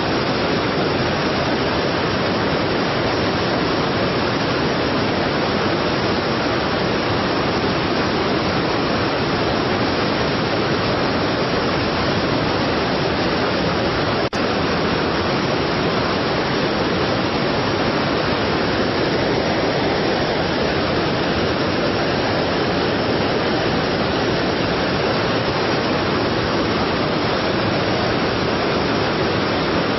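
Heavy waterfall, water pouring with a steady, dense rush. One brief click about halfway through.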